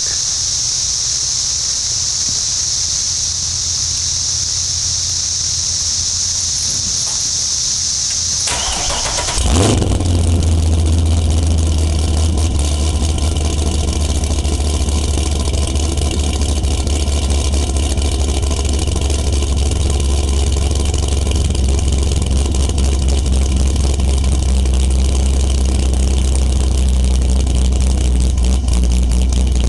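A V8 with a Katech Torquer camshaft and B&B Fusion exhaust cranks briefly about a third of the way in and fires. It then settles into a loud, deep idle with a choppy, uneven pulse, the lope of an aggressive cam. Before the start there is a steady high hiss.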